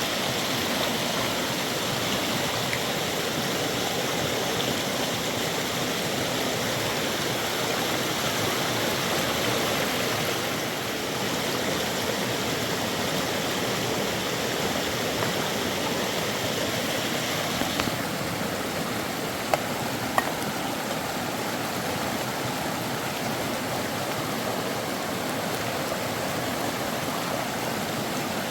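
River water rushing, a steady, even noise. Two sharp clicks come about two-thirds of the way through.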